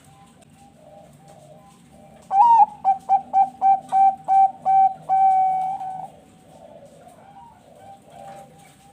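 Zebra dove (perkutut bangkok) singing one full song phrase: a rising opening note, about eight quick clipped coos, then one long held final note. Other doves coo softly behind it.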